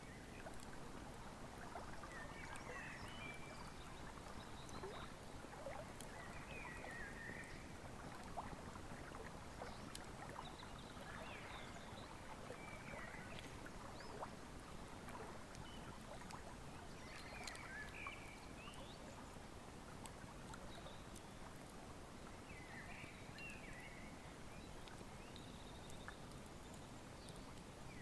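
Wood fire crackling with scattered small pops over the steady rush of a flowing river. Short high chirps come every few seconds.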